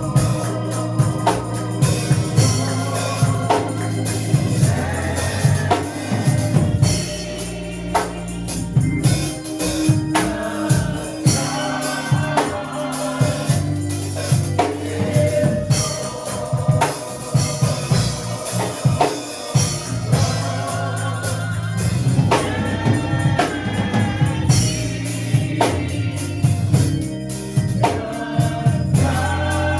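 Gospel music with a choir singing over organ, bass and a steady drum and tambourine beat.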